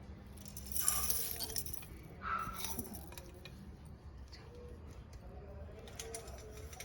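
Dry-roasted whole spices (pepper, coriander seeds and the like) rattling and clinking as they are tipped into a stone mortar, in two short pours about a second and two and a half seconds in, followed by a few light clicks.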